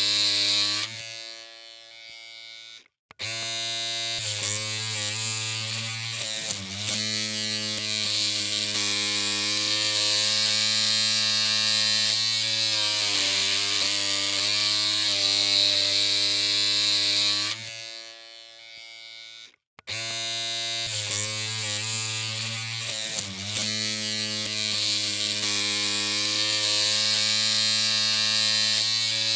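Electric hair clippers running with a steady buzzing hum. The hum dies away twice, about a second in and again past the middle, cuts out briefly and starts up again, and its pitch wavers briefly a few seconds after each restart.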